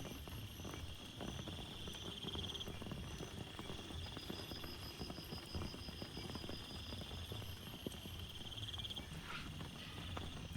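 Rain pattering and dripping in irregular taps over a low rumble, under a steady chorus of trilling insects whose high, pulsing calls swell and fade in stretches.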